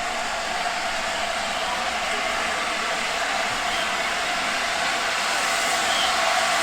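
Steam locomotive blowing off steam: a loud, steady hiss of escaping steam, growing slightly louder near the end.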